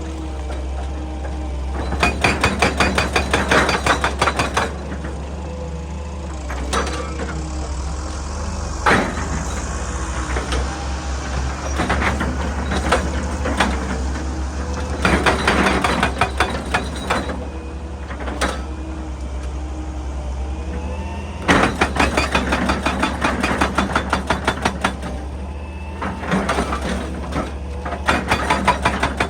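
Excavator engine running steadily, with several bursts of rapid, evenly spaced knocking that last a few seconds each.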